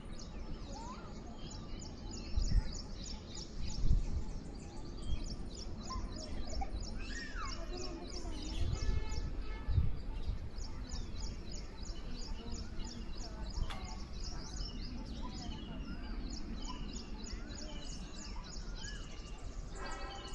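Birds singing outdoors: one repeats rapid, high, short chirps several times a second in long runs, and another gives repeated falling whistles in the second half. A few brief low rumbles come about two and a half, four and ten seconds in, over a steady low background noise.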